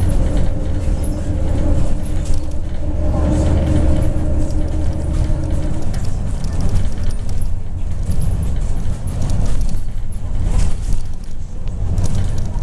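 MAZ 103 bus heard from inside the cabin while under way: a deep engine and road rumble with rattling from the interior fittings. A steady hum runs over it and fades out about halfway through.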